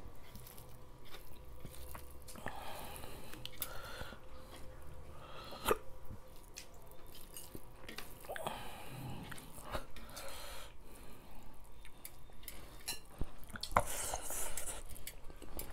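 Close-up mouth sounds of people eating rice and fish soup by hand: wet chewing and lip-smacking, with scattered sharp clicks. The loudest clicks come about six seconds in and near the end.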